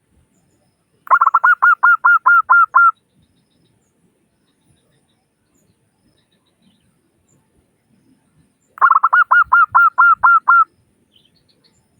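Zebra dove (perkutut) singing: two phrases of rapid, evenly spaced cooing notes, each lasting about two seconds, the second about six seconds after the first. It is a local-strain perkutut's call, of the kind played as bait to get caged zebra doves to start singing.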